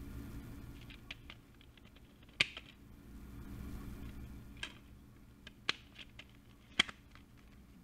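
Scattered sharp clicks, as of computer keys, over a low steady hum; two louder clicks come about two and a half and seven seconds in.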